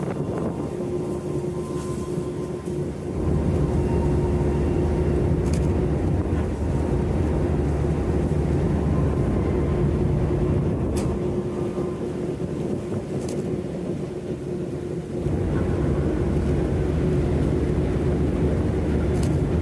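Icebreaker sightseeing ship Aurora under way through drift ice: a deep, steady rumble of engine and hull with a constant hum. The rumble swells louder for several seconds at a time, twice.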